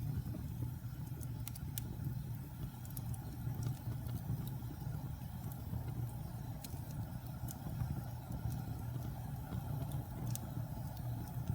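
Wood fire burning in a fireplace: a steady low rumble of the flames with scattered sharp crackles and pops from the logs every second or two.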